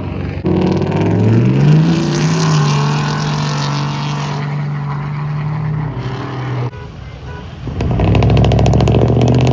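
Pickup truck engine revving up, its pitch climbing for about a second, then holding a steady note. After a short break, an engine runs loudly and steadily again from near the end.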